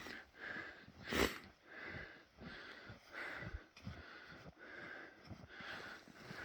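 Footsteps in snow at a steady walking pace, about one and a half steps a second, with one louder knock or scuff about a second in.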